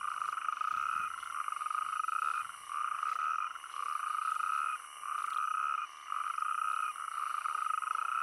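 Male natterjack toads calling in chorus at a breeding pond: a run of rattling trills, each about a second long, following one another with short gaps. These are mating calls to females, and a strong call is a sign of a healthy male.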